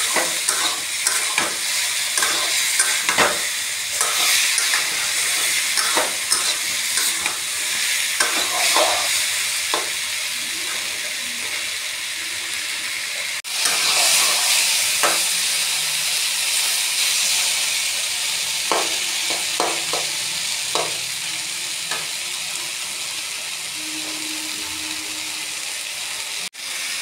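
Aubergine, onion and green chillies in spice paste sizzling in a kadai while a spatula stirs and scrapes them against the pan. A steady frying hiss runs under frequent scraping clicks, which are thickest in the first ten seconds.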